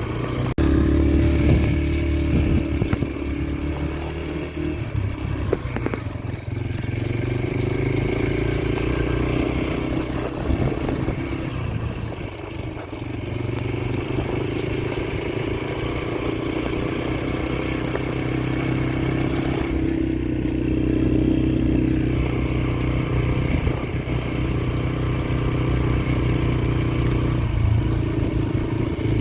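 Yamaha TT-R125LE dirt bike's single-cylinder four-stroke engine running while being ridden, its pitch rising and falling with the throttle, easing off briefly about twelve seconds in.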